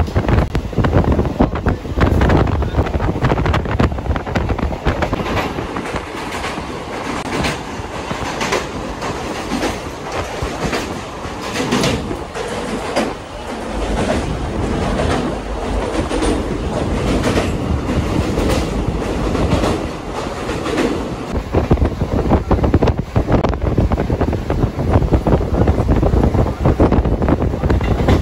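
Electric local train running along the track, heard from the coach's open doorway: a loud, continuous rumble of wheels on rails, with a run of sharp clacks from the wheels over rail joints in the middle part.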